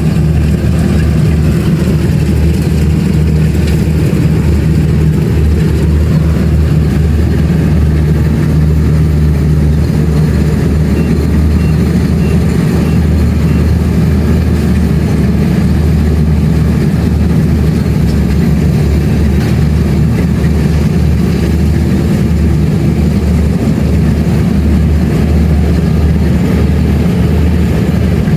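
Kubota DC-70 Plus combine harvester's diesel engine running steadily, a loud continuous low hum.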